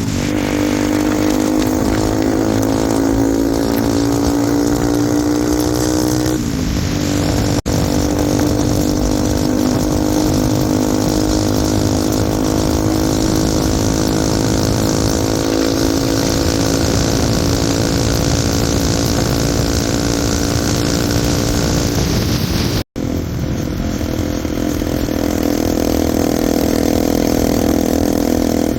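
Bajaj Pulsar NS200's single-cylinder engine running under way through an aftermarket exhaust, its pitch climbing slowly, dropping at a gear change about six seconds in, then climbing again.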